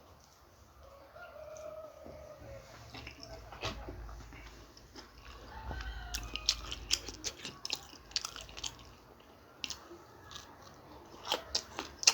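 Close-up eating sounds: crisp bites and crunching of a samosa and green chillies, busiest from about halfway through. A faint drawn-out wavering call sounds in the background about a second in.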